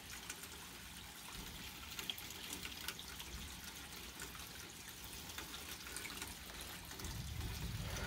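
Steady rain falling, with scattered individual drips and splashes close by. A low rumble rises near the end.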